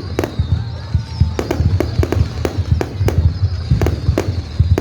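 Fireworks display: an irregular string of sharp bangs, several a second, over a dense low rumble.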